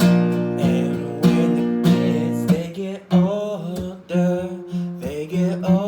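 Acoustic guitar strumming chords in an instrumental break of a love song. From about halfway the strumming turns sparser, with a melody line over it that bends in pitch.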